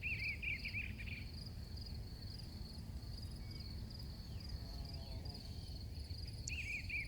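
Crickets chirping steadily in an even, pulsing rhythm, with a lower, twittering call heard twice, near the start and near the end, over a faint low rumble.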